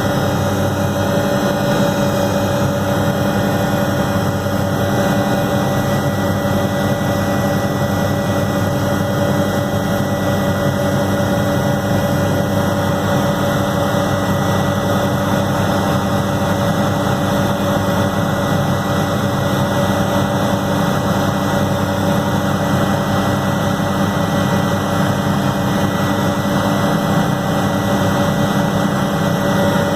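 Helicopter engine and rotor running steadily in flight, heard from aboard, with several constant hum tones over a steady noise.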